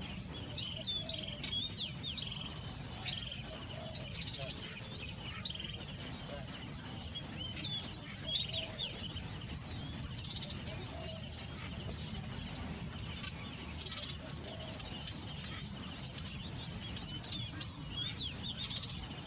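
Small birds chirping: clusters of short, high, quick notes come and go over a steady low background rumble.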